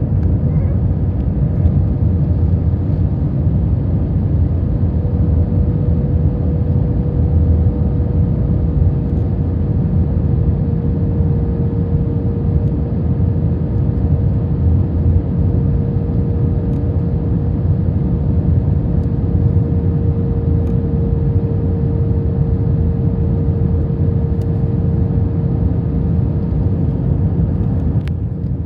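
Cabin noise of an Airbus A321 on approach with flaps extended: a steady rumble of engines and airflow, with a steady mid-pitched hum that dips slightly in pitch about ten seconds in.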